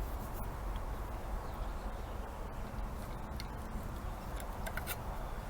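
Steady low hum with a few light clicks and taps, like small metal parts being handled.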